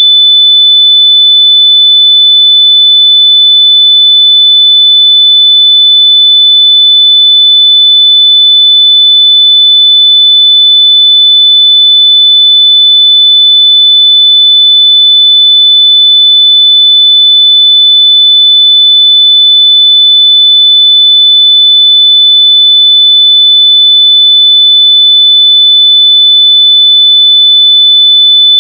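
Loud, steady, high-pitched electronic sine-wave tone, one unbroken pitch with no beat or pulse: a locator tone played through wireless earbuds so they can be found by ear.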